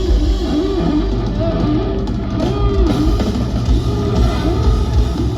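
Live rock band playing an instrumental passage, electric guitar over bass and drums.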